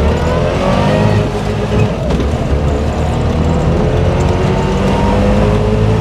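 Trabant 601's two-stroke two-cylinder engine, heard from inside the cabin, pulling under acceleration with its pitch rising. About two seconds in the pitch drops back at a gear change, then climbs slowly again.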